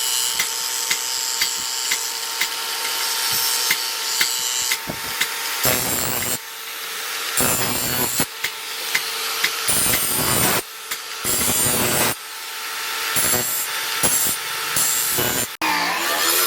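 Power tool motor running steadily while working the steel of the blade, with repeated rasping passes of a second or so each in the second half.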